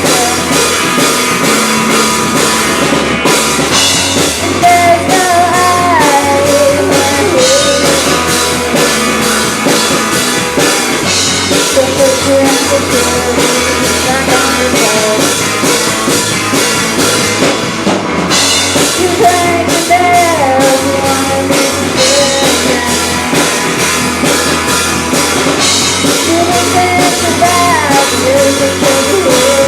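Live rock band playing a song: drum kit, bass and guitar, with a lead vocal singing over them.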